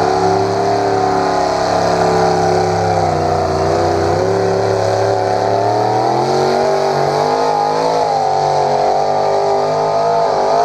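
Engine of a Massey Harris–bodied pulling tractor running hard under load down the track, its pitch dipping about three seconds in, then climbing and wavering as the throttle is worked.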